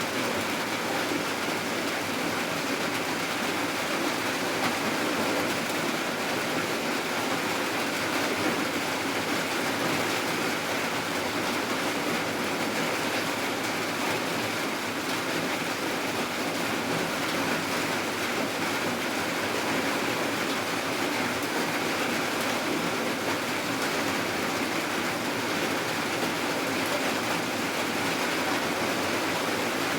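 Steady, even rainfall that does not change in strength.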